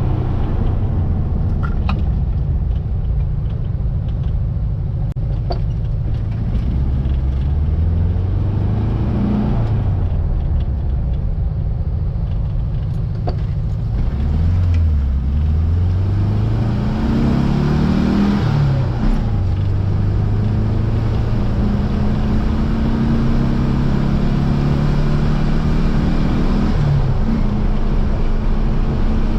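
1700cc air-cooled VW flat-four engine of a Baja Bug pulling the car along. Its pitch holds, sinks a third of the way in, drops lowest around the middle, climbs again as it speeds up, then runs steady.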